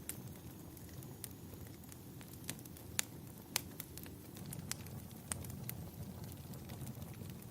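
Wood fire crackling in a fireplace: irregular sharp pops and snaps over a low, steady rumble, with two louder pops about three seconds in.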